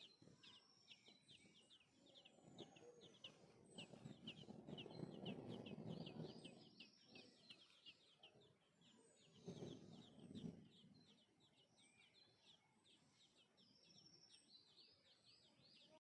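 Many small birds chirping, a dense, continuous run of short high chirps. A lower, rougher sound swells up for a few seconds in the middle and again briefly later, and everything cuts off abruptly near the end.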